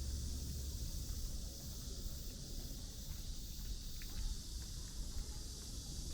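Outdoor ambience on a city park path: a steady high insect hum over a low rumble of city traffic, with a few faint short chirps.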